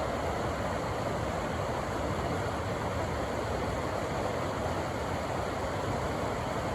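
River water rushing steadily over rocks: a continuous, even rush with no breaks.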